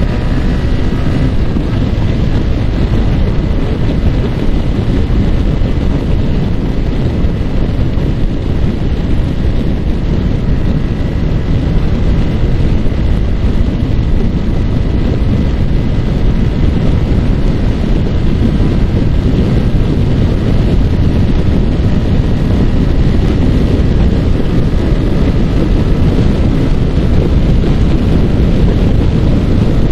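Heavy wind rushing over the microphone from a Yamaha R15 motorcycle at riding speed, with its single-cylinder engine running steadily underneath. A faint steady whine sits in the first few seconds.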